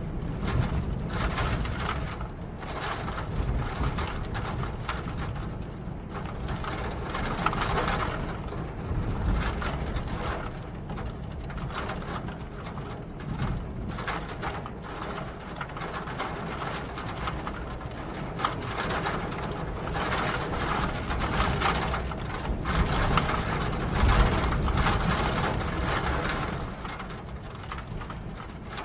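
Steady rain falling, a dense patter of drops over a low rumble, swelling and easing in loudness.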